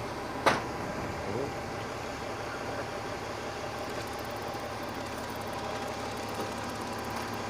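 Rubbish truck's diesel engine idling steadily, with a single sharp click about half a second in.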